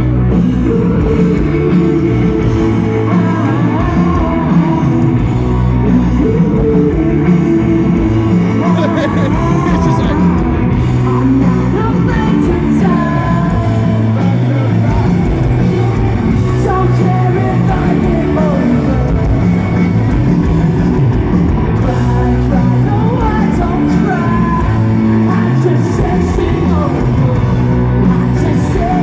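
Live rock band playing at full volume, with a lead vocal singing over guitars, bass and drums.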